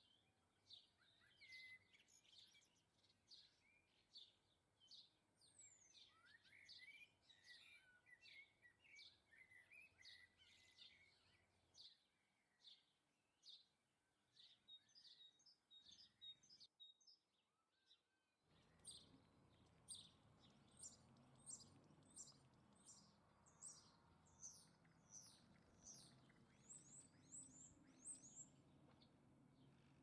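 Faint, repeated high chirps of small garden birds, about one or two a second, with a brief break just past halfway.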